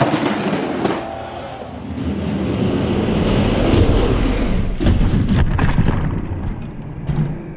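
Hot Wheels-style diecast toy monster trucks rolling fast down a racing track, a continuous rumble of small wheels on the track. Sharp clacks come near the start and again about five seconds in.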